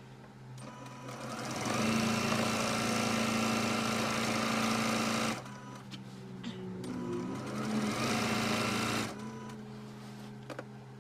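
Electric sewing machine stitching in two runs: a steady run of about four seconds, a brief pause, then a second run of about three seconds.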